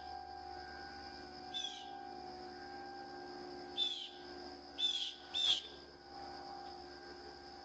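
A bird chirping: four short, sharp calls that drop in pitch, one about a second and a half in, one near four seconds, and two close together around five seconds, over a faint steady hum.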